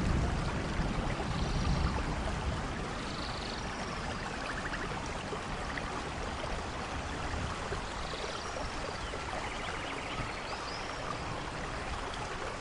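Steady rainforest rain falling, with a low thunder rumble dying away in the first couple of seconds. Faint short high chirps of animals come every few seconds.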